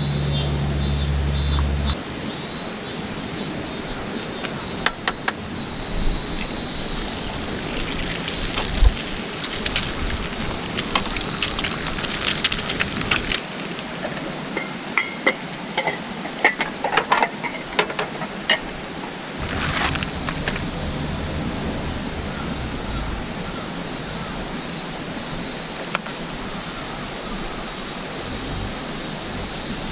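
Steady rushing of a mountain stream, with scattered sharp crackles and clicks through the middle; a music track ends about two seconds in.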